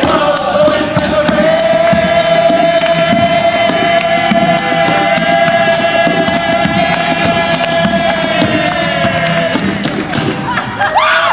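Live music: a tambourine jingling in a steady beat while a voice holds one long sung note for about nine seconds, then slides up and down near the end.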